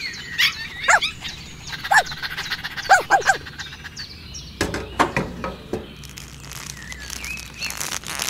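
A bird chirping in short rising-and-falling calls, about one a second, twice in quick succession near the third second. Sharp clicks and rattles follow a little past halfway and again near the end.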